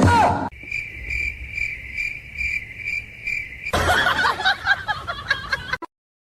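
Insect chirping in a steady rhythm of about two chirps a second for about three seconds. Then a jumble of short clattering noises follows, which cuts off suddenly near the end.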